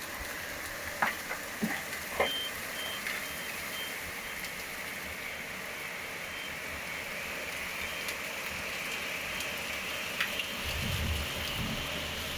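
Heavy rain falling steadily in a thunderstorm, with a few sharp taps of drops a second or two in. A faint run of high beeps sounds behind it for a couple of seconds, and a brief low rumble comes near the end.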